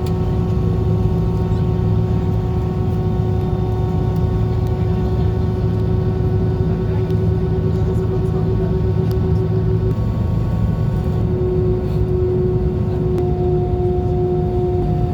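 Airbus A320 jet engines running steadily: a deep even drone with several whining tones held over it. About ten seconds in, one tone shifts slightly in pitch, and near the end a higher whine joins it.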